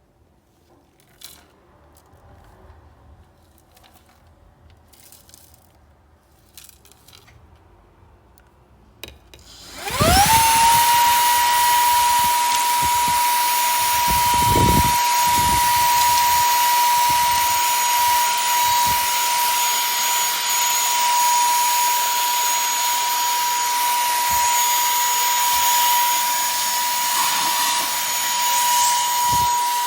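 A few faint handling clicks, then about ten seconds in a cordless handheld vacuum's brushless motor spins up with a quickly rising whine and runs steadily, a steady whine over the rush of air.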